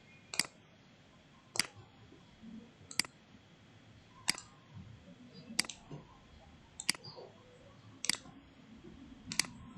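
Computer mouse clicking eight times at an even pace, about one click every 1.3 seconds.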